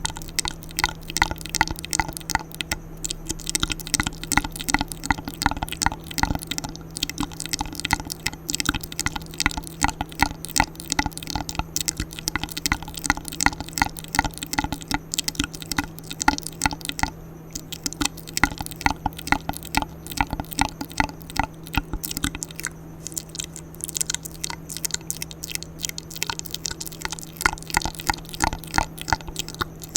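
Close-miked ASMR mouth sounds: a rapid, uneven run of wet clicks and smacks, several a second.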